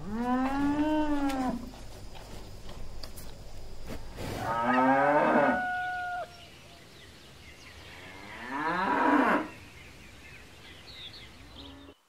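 Cows mooing: three separate long moos, the first rising and falling in pitch at the start, the second about four seconds in, the third a little past eight seconds in.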